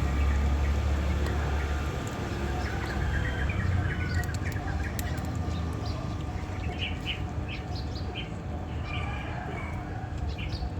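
Small birds chirping: many short, high chirps at irregular intervals, with a low rumble during the first two seconds.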